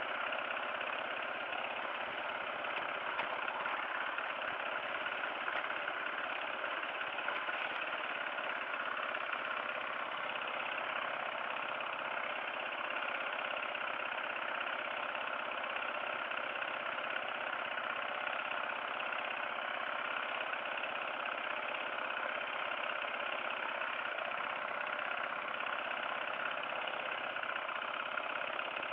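Dirt bike engine running steadily, with no revving up or down.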